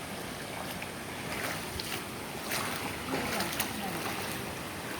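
Mountain stream water rushing over rocks, a steady hiss, with faint distant voices.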